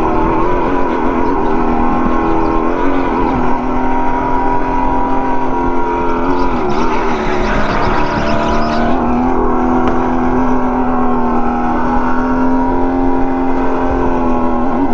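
Go-kart running at speed around a track with a steady high-pitched whine. Its pitch dips briefly twice, near 3 and 6.5 seconds in, as the kart slows for turns, then climbs back.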